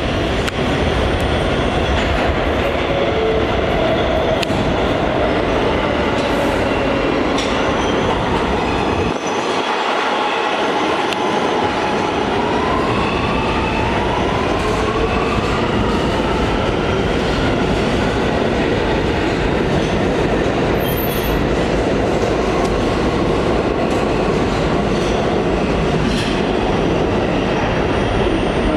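Kawasaki R211A subway train running through the station, loud and continuous, with rail and wheel noise. Its motors whine in a tone that slides down in pitch during the first several seconds; later, from about twelve seconds in, whines rise in pitch.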